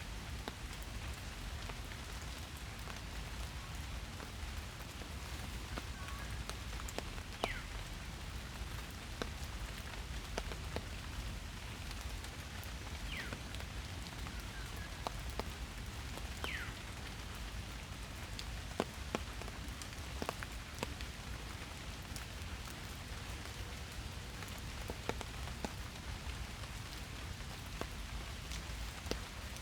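Steady rain falling in a forest, with scattered louder single drops striking close by.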